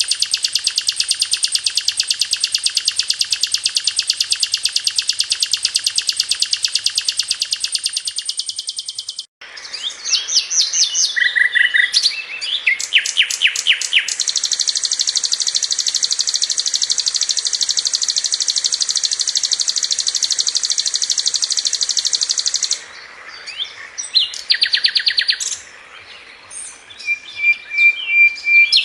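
Sikatan londo flycatcher singing: long, very rapid, tight trills of high notes, broken off suddenly about nine seconds in. Varied chirps and a second long trill follow, then scattered short calls and a brief trill near the end.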